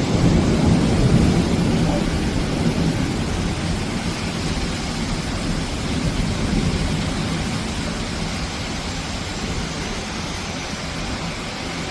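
Storm noise: a dense, continuous roar of wind and rain with a heavy low rumble in the first couple of seconds, slowly easing.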